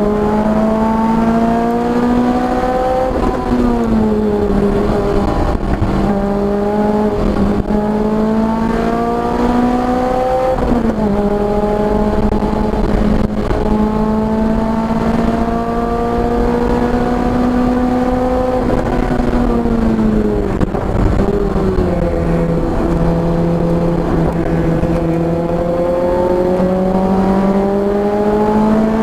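Car engine at full throttle on a track lap, its pitch climbing steadily and dropping sharply at upshifts about 3 and 10 seconds in. It winds down around 19 to 22 seconds as the car slows for a corner, then climbs again through the gears.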